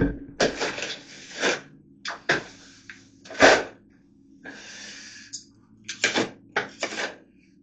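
A series of short scrapes and knocks, with one longer scrape about halfway through, from wood strips and tools being handled and pushed into old wall lath during a plaster repair.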